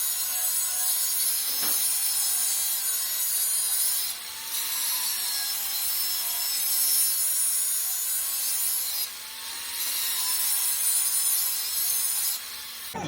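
A power tool working metal with a steady, high hissing scrape in three long passes, broken briefly about four and nine seconds in, while its motor whine wavers under load.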